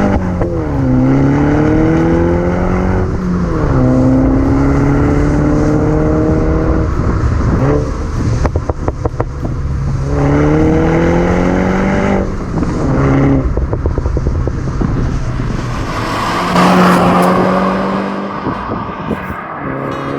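Mini Cooper S F56's 2.0-litre turbocharged four-cylinder breathing through a cheap aftermarket full exhaust system, accelerating through the gears. The revs climb and drop back several times, as at upshifts, with short bursts of rapid crackling pops on the overrun in between.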